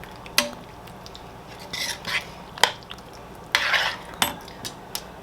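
A spoon stirring in a pot of chili, with several sharp clinks against the pot and two longer scraping strokes.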